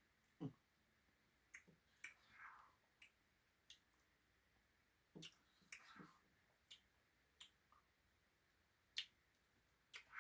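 Faint eating sounds during a pause in tasting ice cream: scattered sharp clicks and brief wet smacks of the mouth and spoon, a few spread across the quiet.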